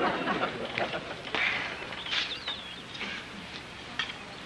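Scattered short bird chirps, with a brief warbling call about two seconds in.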